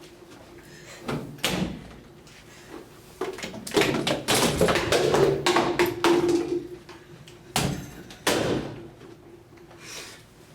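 A series of sharp knocks and thuds, several close together near the middle, with quieter pauses between them.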